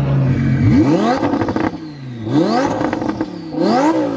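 Twin-turbo Audi R8 V10 engine revved in three quick blips, about a second and a half apart, each climbing in pitch and falling back. At the start the engine note falls as it comes off the throttle.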